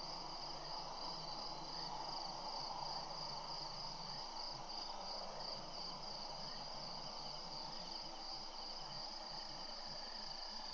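Crickets trilling in a steady, unbroken high chorus, with a faint low hum underneath.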